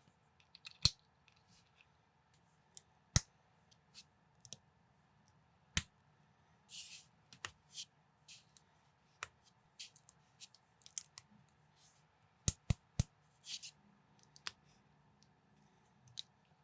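Lego-compatible plastic bricks being handled and snapped together: scattered sharp clicks, with three in quick succession about twelve and a half seconds in, and soft rustling of pieces in between.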